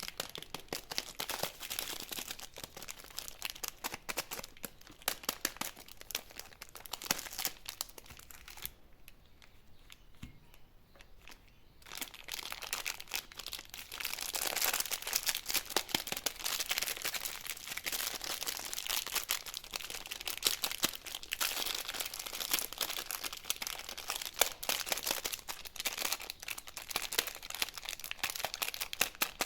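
Candy wrappers being crinkled and torn open by hand in dense, crackling rustles. The handling eases for a few seconds about a third of the way in, then comes back louder.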